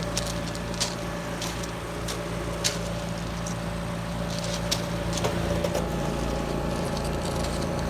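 A Trane XR14 3.5-ton heat pump outdoor unit running steadily in cooling mode: a constant compressor and condenser-fan hum, with a few sharp ticks. It sounds really nice, running smoothly.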